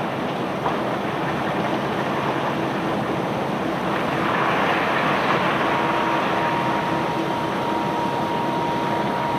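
Steady machinery noise of cobblestones being unloaded from a barge, with faint scattered clatter. A thin steady whine comes in a little past halfway.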